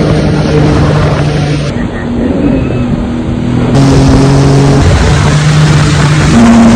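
Jet ski engine running hard, its pitch stepping up and down several times.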